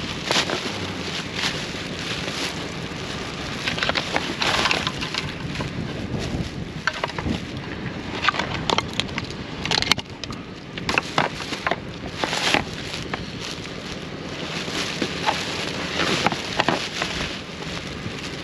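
Rummaging through trash: irregular rustling, crunching and knocking of items being handled and shifted, over a steady noisy background.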